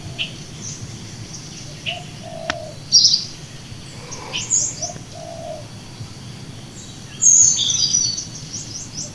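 Small birds chirping and twittering in short high calls, with a busier burst about seven seconds in, and a dove giving a short low coo twice. A faint steady low rumble runs underneath.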